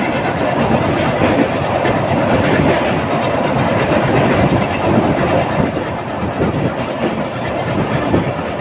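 Train running across a river bridge: a steady, loud rumble of wheels and carriages with rail clatter.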